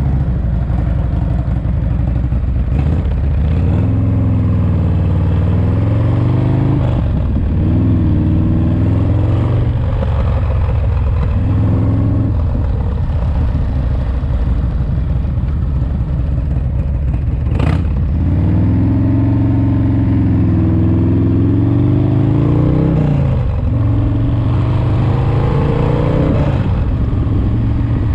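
Rebuilt S&S 107ci V-twin engine in a Harley-Davidson FXRT pulling on the road during break-in. Its revs rise and drop back again and again, as through gear changes and throttle roll-offs. There is a single sharp click about two-thirds of the way through.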